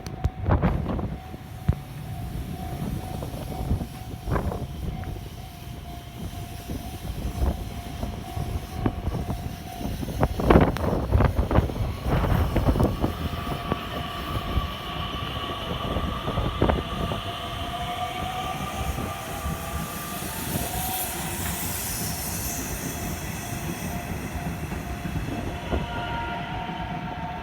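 Nishitetsu electric train at the station: its wheels knock over the rail joints in a quick cluster about ten seconds in, over steady motor whine, and the whine rises in pitch about twenty seconds in.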